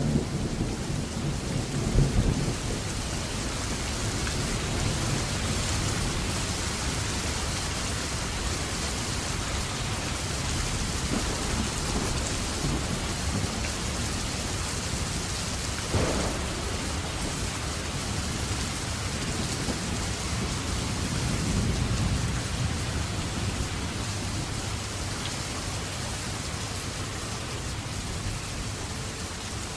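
Steady heavy rain falling, with low rolls of thunder swelling near the start and again a little past two-thirds through. A sharp louder crack comes about two seconds in, and a single brief knock near the middle.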